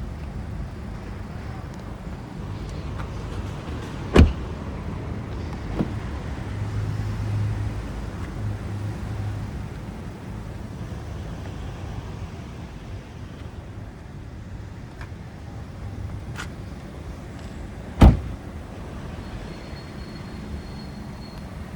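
A Volkswagen Jetta's 1.4 TSI turbocharged four-cylinder engine running with a steady low rumble. Two sharp thumps come about four seconds in and about eighteen seconds in, with a few lighter clicks.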